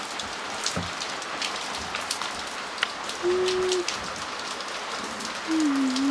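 Heavy rain falling steadily, with individual drops pattering and ticking through the hiss. A short hummed voice sound comes in about three seconds in, and another, wavering one near the end.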